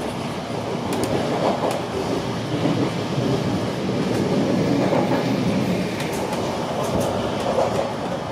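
Running noise heard inside a Deutsche Bahn Intercity 2 Twindexx double-deck coach at speed: a steady rumble of wheels on track, with a few faint clicks.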